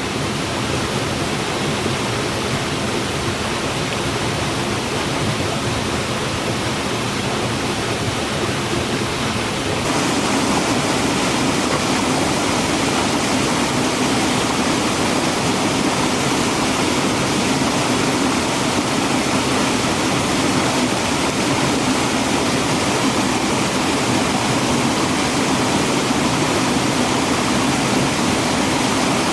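Steady rush of water from a mountain stream or waterfall, becoming louder and fuller about a third of the way through.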